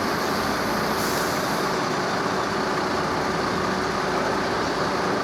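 An engine running steadily, an even wash of noise with a faint, steady hum through it.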